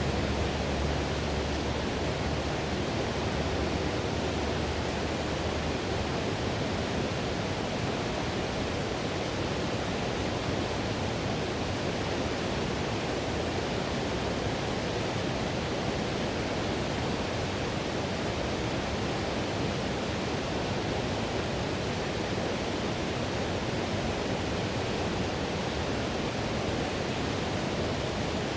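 Whitewater river rushing steadily: a dense, even wash of water noise with no breaks. A low rumble underneath drops away about six seconds in.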